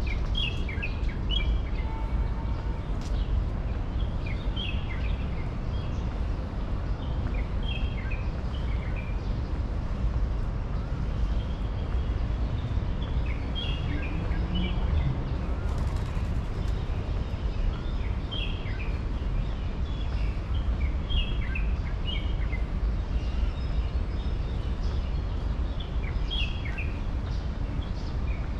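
Small birds chirping in short, repeated bursts of high notes every second or two, over a steady low background rumble.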